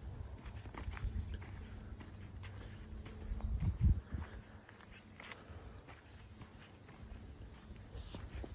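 Steady high-pitched drone of a summer insect chorus, with footsteps thudding on a forest trail and a couple of louder steps about four seconds in.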